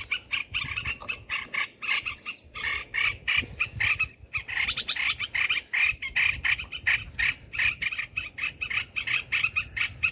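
Continuous rapid chattering of bulbul calls, many short chirps a second: the merbah belukar (olive-winged bulbul) lure call used to draw bulbuls to a trap.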